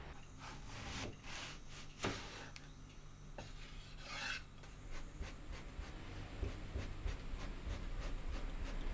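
Repeated rasping, rubbing strokes, with one sharp knock about two seconds in.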